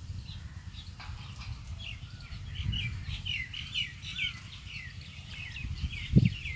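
Small birds chirping, with a quick run of short falling chirps in the middle, over a steady low rumble. A single dull thump comes near the end.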